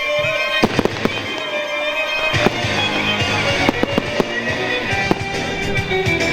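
Fireworks going off, a string of sharp bangs at irregular intervals, over music.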